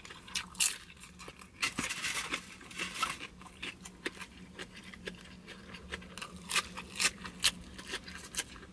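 Close-up chewing of crunchy food, a deep-fried spring roll and cucumber: irregular sharp crunches and wet mouth clicks, with a faint steady low hum underneath.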